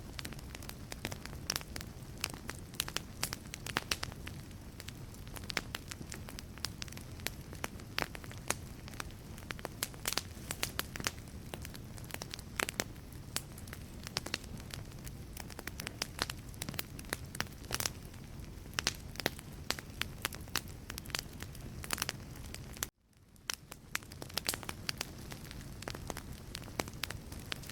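Wood fire burning in a fireplace: logs crackle and pop in sharp, irregular snaps over a steady low rumble of the flames. About 23 seconds in, the sound cuts out for a moment and fades back up.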